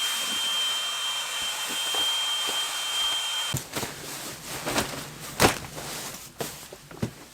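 Small electric air pump running steadily with a thin whine, inflating an air mattress, then switching off abruptly about three and a half seconds in. It is followed by scattered knocks and rustling as the bedding is handled.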